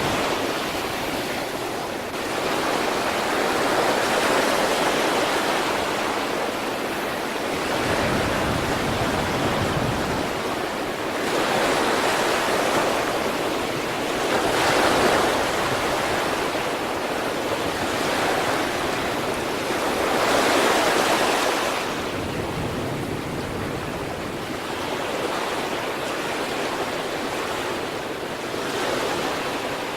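Sea waves breaking and washing on the shore, a continuous rushing surf that swells and eases every few seconds, with some wind on the microphone.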